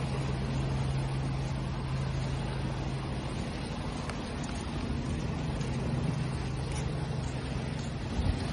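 Steady rush of waves with a low, steady motor hum over it, like an engine running.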